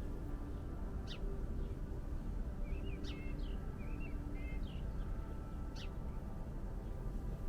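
Wild birds calling: a few sharp, quickly falling chirps, spaced a second or two apart, with a short run of warbled notes in the middle, over a steady low background rumble.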